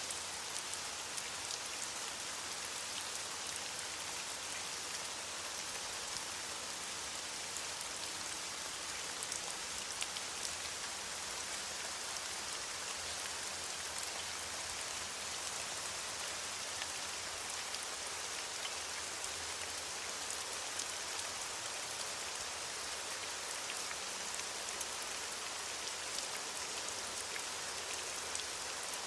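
Steady rain falling on leaves, an even hiss with many fine drop patters.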